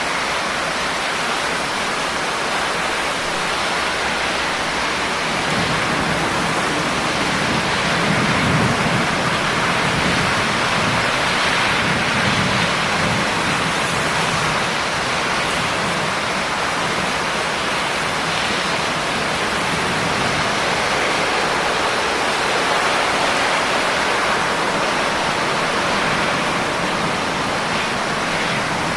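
Steady rain falling, a dense even hiss, with a low rumble swelling and fading between about 5 and 14 seconds in.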